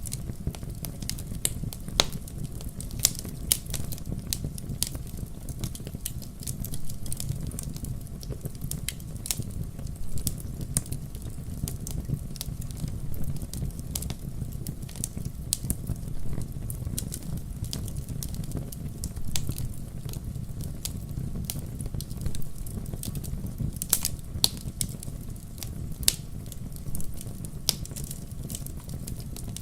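Wood fire burning in a fireplace, a steady low rumble of flames with frequent irregular sharp crackles and pops.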